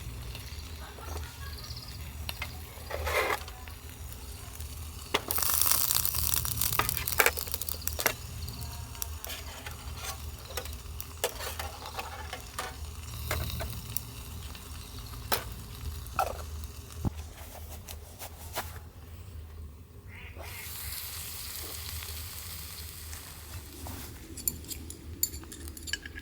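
Food sizzling in a pan, with scattered clicks and knocks of utensils; the sizzle swells about five seconds in and again near the end.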